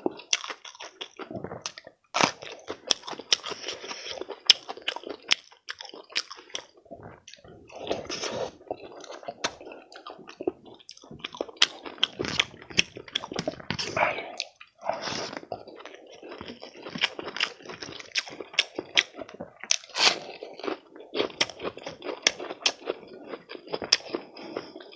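A person chewing and crunching food close to the microphone, with many sharp crunches and wet mouth clicks coming irregularly and without pause.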